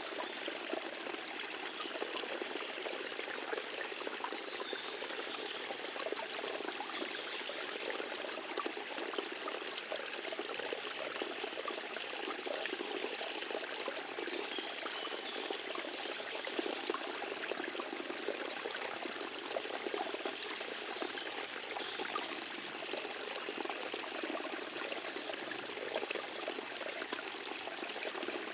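Forest stream trickling steadily, an even, unbroken splashing of water.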